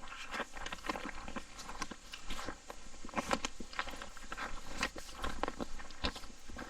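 Footsteps of people walking on a hiking trail: an uneven run of crunching steps.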